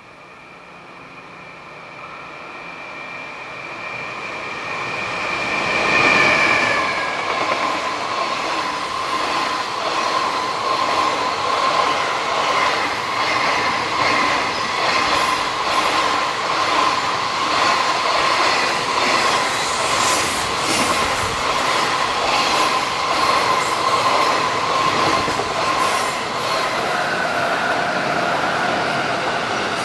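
Freight train approaching and passing: the sound builds until the locomotive passes about six seconds in, its whine dropping in pitch, then a long string of freight wagons rolls by with steady rumble, rail clatter and high-pitched wheel squeal on the curve.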